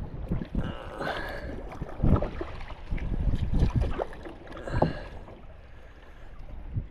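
Paddle strokes splashing in shallow water, irregular and a second or so apart, over a low rumble.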